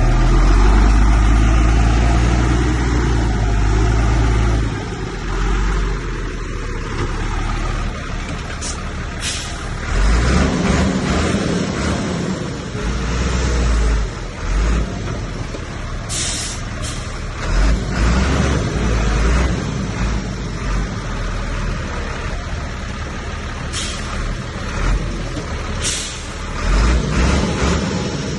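Heavy diesel earthmoving machinery running under load, a deep engine rumble that swells and eases. Several short hisses cut in over it.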